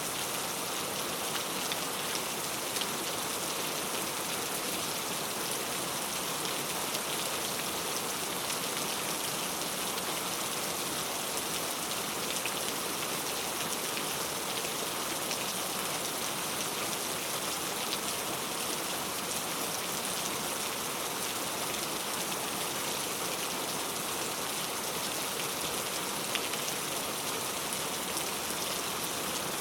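Steady rain falling, with a dense patter of fine drop ticks over an even hiss.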